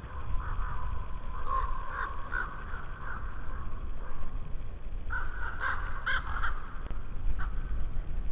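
Birds calling in short repeated calls, in two bouts: one starting about half a second in, the other about five seconds in. A low wind rumble runs underneath.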